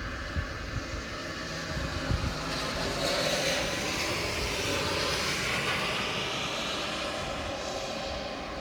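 A vehicle passing on a wet road: a rushing tyre hiss swells to a peak a few seconds in and slowly fades, over steady rain-soaked road noise.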